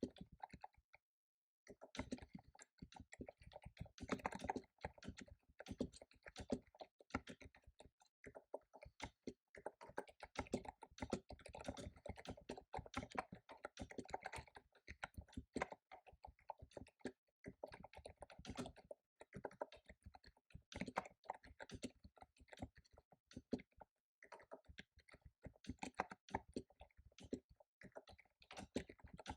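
Fast typing on a computer keyboard: a dense, irregular run of keystroke clicks, broken by a short pause about a second in and another brief pause near the end.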